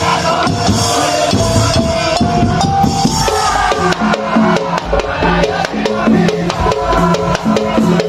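Madurese ul-daul (tong-tong) percussion ensemble playing an instrumental passage: dense, fast drum and wood-block strikes under a stepping melody line, with bass notes entering about halfway through.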